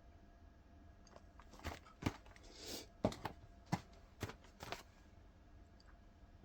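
Packaging being handled: a string of sharp taps and crinkles with a short rustle, from about a second and a half in to about five seconds.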